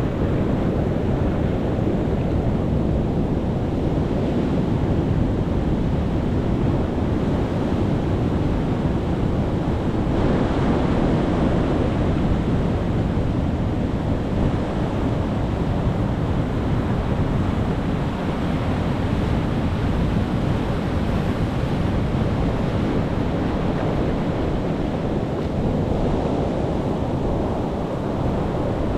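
Sea waves breaking and washing in as a continuous, steady rush of surf.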